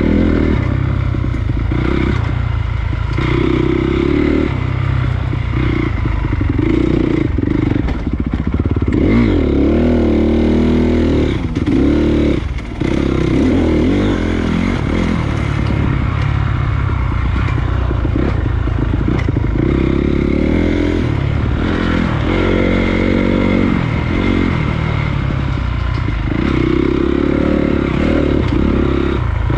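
Honda CRF250 dirt bike's single-cylinder four-stroke engine running under a trail ride, its pitch rising and falling again and again as the throttle opens and closes. Scattered knocks come through as the bike rides over rough ground.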